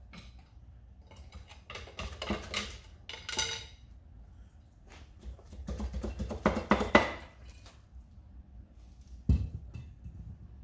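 Metal tools and engine parts clinking and rattling during an engine teardown, in two bursts of clatter, with a single heavy thump near the end.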